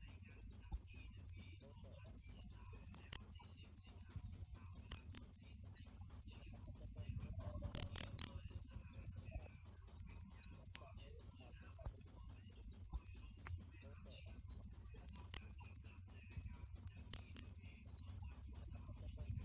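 Insect chirping in an even, unbroken rhythm of about four high chirps a second, like a cricket.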